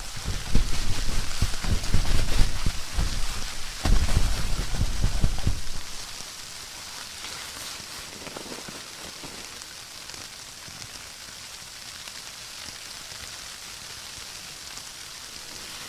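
Wind buffeting the microphone and tarp shelter in blizzard gusts, with a sharp knock about four seconds in. After about six seconds the gusts drop away, leaving a steady hiss of wind and blowing snow on the tarp.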